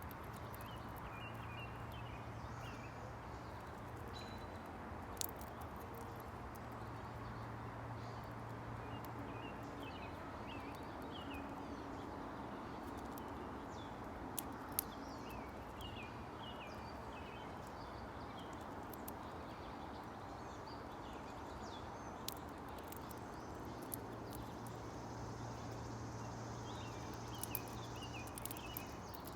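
Small songbirds chirping in short, scattered calls, with a few sharp clicks and a steady low hum underneath.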